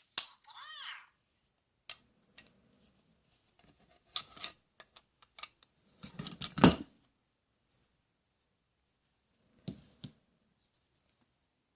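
Plastic toy tools being handled: scattered clicks and short clatters. A louder knock comes a little past the middle.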